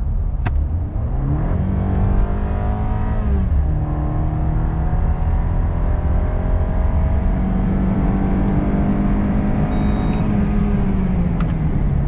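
BMW 318i's 2.0-litre four-cylinder turbo petrol engine pulling hard in an acceleration run, its pitch rising, then dropping at an upshift of the 8-speed automatic about three and a half seconds in. It climbs slowly again and falls near the end, with steady road rumble underneath. A short high beep sounds about ten seconds in.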